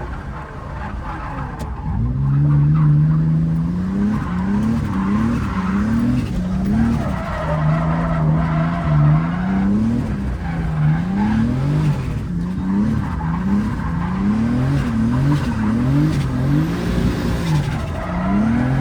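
Turbocharged BMW E30 drift car's engine being driven hard, revving up and dropping back over and over as the throttle is worked. It gets louder about two seconds in.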